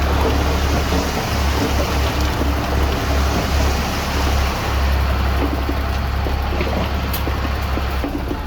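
Diesel engine of heavy earthmoving machinery running steadily, with a low rumble under a broad rushing noise.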